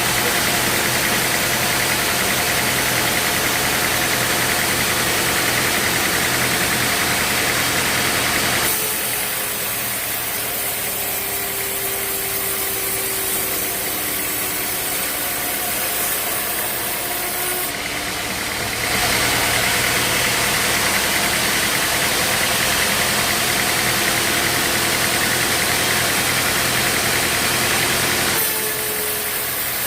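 Sawmill machinery running with a steady motor hum and a few slowly sliding tones. Its sound changes abruptly about 9, 19 and 28 seconds in.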